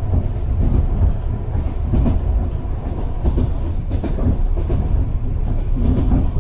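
Moving passenger train heard from inside a compartment carriage: a steady low rumble of wheels running on the rails, with occasional clicks as they cross the rail joints.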